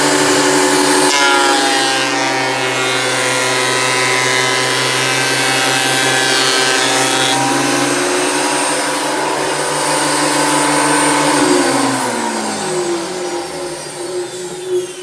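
Makita 2012NB portable thickness planer running loudly at full speed with a steady motor whine. About twelve seconds in it is switched off, and the whine falls in pitch as the cutterhead coasts down.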